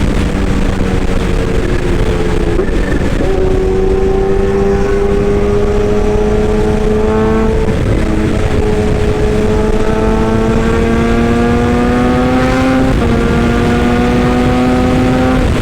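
A motor vehicle engine running loudly with a humming whine. Its pitch climbs slowly, then drops back a step, three times over, much like gear changes under acceleration.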